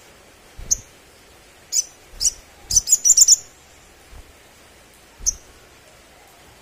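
Olive-backed sunbird giving sharp, high chirps: single notes spaced out, and a quick run of several notes about three seconds in.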